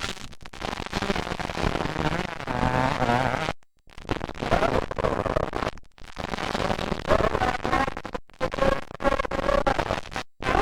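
125cc two-stroke motocross bikes racing, their engines revving up and down through the gears with a rasping, popping note. The sound cuts out abruptly for a moment several times.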